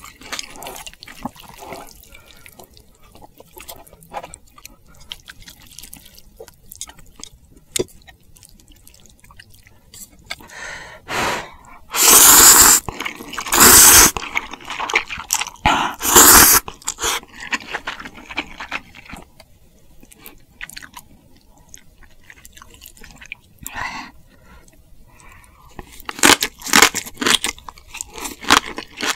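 Close-miked eating: wet chewing with small mouth clicks, three loud slurps of ramen noodles about halfway through, then a run of crunchy bites near the end.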